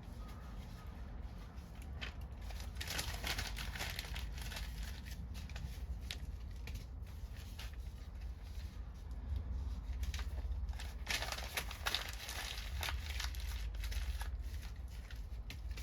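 Backyard wood fire crackling and popping irregularly, with two spells of denser crackling, over a steady low rumble.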